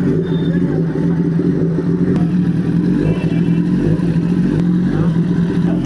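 Motorcycle engine running steadily at an even speed, one constant drone with no change in pitch.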